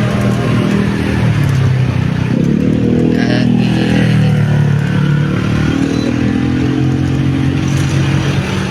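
A road vehicle's engine running on the move, with road noise. Its pitch rises twice as it accelerates, once about two seconds in and again past the middle.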